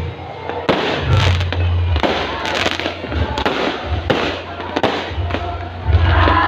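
Fireworks bursting in quick, irregular succession, with sharp cracks and deep booms.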